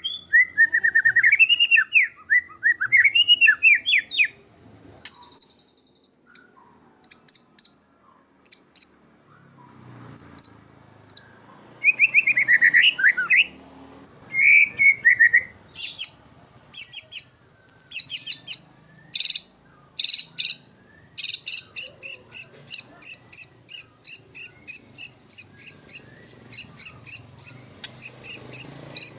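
White-rumped shama singing a varied song: rich warbling whistled phrases alternating with short sharp high notes and clicks. In the second half it breaks into a long, even series of sharp chirps, about three a second.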